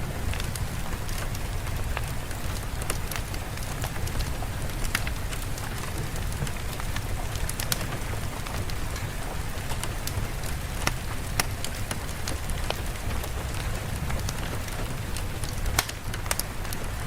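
Steady rain ambience: an even hiss with a low rumble underneath and scattered sharp ticks of individual drops.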